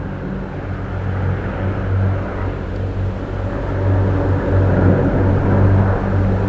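A steady, low engine drone with a rushing noise over it.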